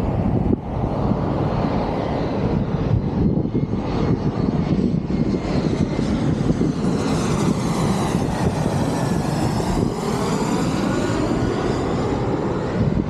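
Airplane passing low overhead on its landing approach: engine noise swells to a peak with a sweeping, pitch-shifting whoosh, then eases off near the end.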